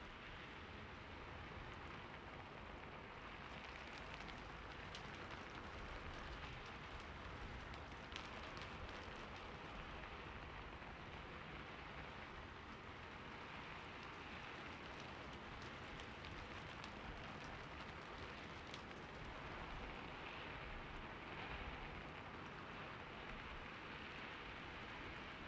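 Steady rain falling on a roof, an even hiss with scattered drops ticking.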